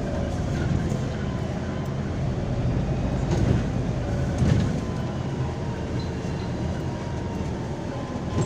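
MAZ-203 city bus heard from inside the passenger cabin while driving: a steady low rumble of engine and tyres with faint whining tones, and two louder knocks in the middle as it goes over bumps.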